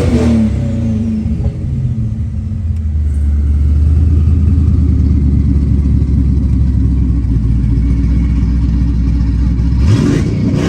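Twin-turbocharged LS3 V8 of a 1970 Chevelle restomod under way, holding a steady low engine note, then revving up sharply near the end.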